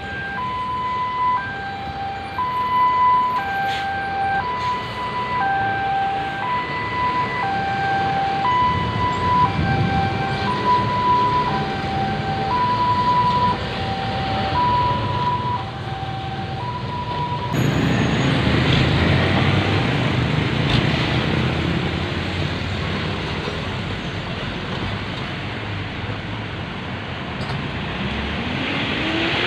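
A two-tone hi-lo warning siren alternating between a higher and a lower note about once a second, over road traffic noise. It stops abruptly about two-thirds of the way through, and louder road traffic follows, with an engine revving up near the end.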